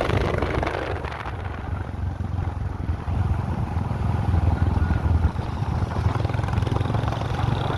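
Steady low engine and road rumble of a vehicle driving on a rough mountain road.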